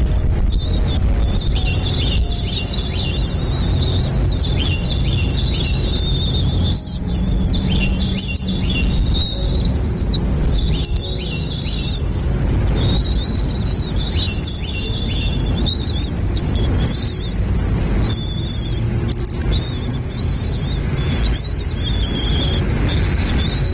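Small birds chirping and calling in quick, high-pitched phrases over a steady low rumble.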